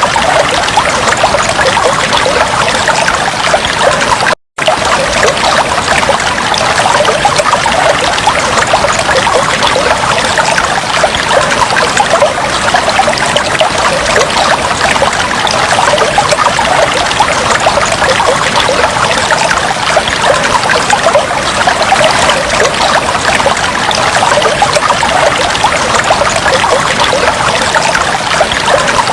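Aquarium water trickling and bubbling steadily and loudly, a dense patter of small splashes and bubbles, with one split-second dropout about four seconds in.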